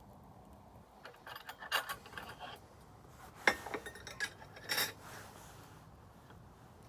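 Wood campfire crackling, with a run of sharp, irregular pops and snaps; the loudest crack comes about three and a half seconds in.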